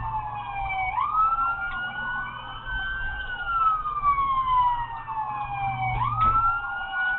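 Police car siren on its wail setting: the tone climbs quickly twice, about a second in and again near the end, and falls slowly in between. A steady low rumble runs underneath.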